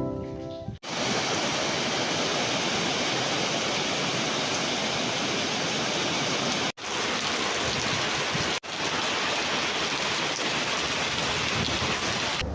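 Steady, even rushing noise of the rain kind, broken off sharply for an instant twice, like cuts between clips.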